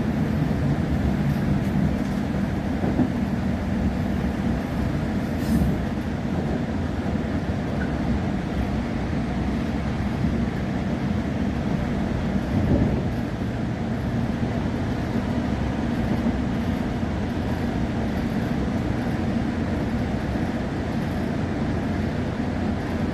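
Inside a moving passenger train carriage: the steady low rumble of the train running along the line, with a couple of brief louder knocks, one about five seconds in and one near the middle.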